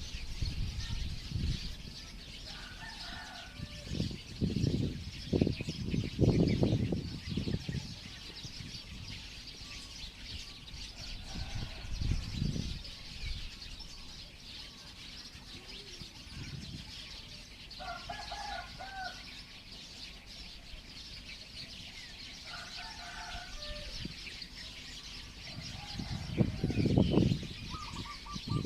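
A flock of small birds chirping continuously in a dense chatter, with a few short, lower calls now and then. Several louder low bursts stand out a few seconds in and again near the end.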